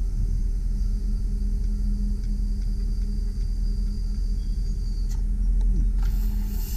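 2001 GMC Sierra 3500 HD bucket truck running with its boom hydraulics working: a steady low rumble with a constant hum.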